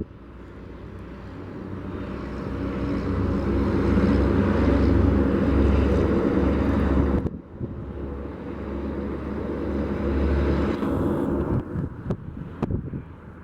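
Departing aircraft's engine noise: a low, steady rumble that swells and fades as the plane passes. It cuts off suddenly about seven seconds in, then builds and fades again.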